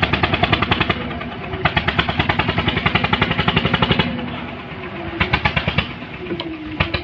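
An engine working in spurts: a rapid beat of about ten pulses a second comes and goes several times, over a steady hum and a whine that rises and falls.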